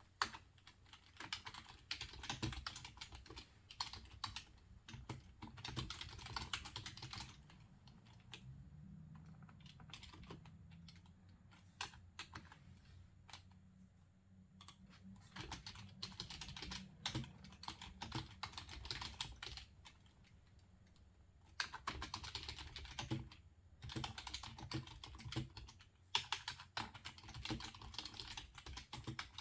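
Computer keyboard being typed on in quick bursts of key clicks, with short pauses between bursts.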